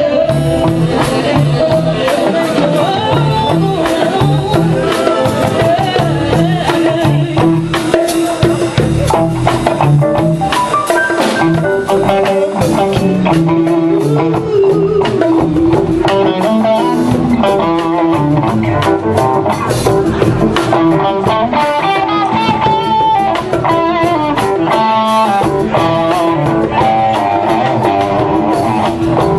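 A band playing an instrumental passage: guitar lines out front over drum kit, bass and keyboards, with a steady beat.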